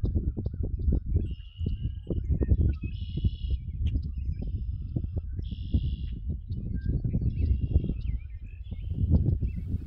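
Birds singing short, repeated phrases several times over, above a louder low rumble with irregular thumps from the walker's footsteps and the moving microphone.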